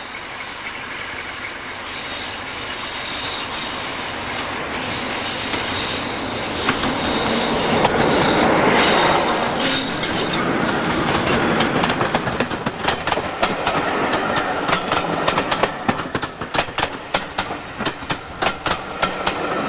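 Diesel locomotive hauling a passenger train passes close by. The engine builds as it approaches and is loudest about nine seconds in as the locomotive goes past, then the coaches roll by with a rapid clickety-clack of wheels over rail joints.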